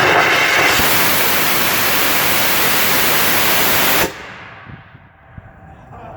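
Small solid-propellant rocket motor firing on a static test stand: a loud, steady hissing roar that cuts off suddenly about four seconds in as the propellant grain burns out, leaving only faint noise.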